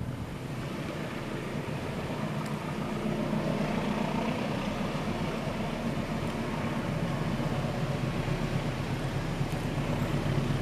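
Approaching train, its diesel locomotive engine humming steadily and growing gradually louder as it nears.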